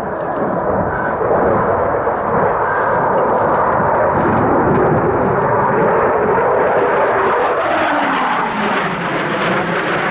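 Eurofighter Typhoon's twin EJ200 turbofans running at high power during a display manoeuvre, a loud, steady jet rumble that builds over the first second. Near the end the engine tone drops slightly in pitch.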